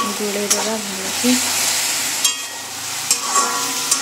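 Onions and turmeric masala sizzling in hot oil in a metal wok, while a metal spatula stirs and clinks sharply against the pan a few times.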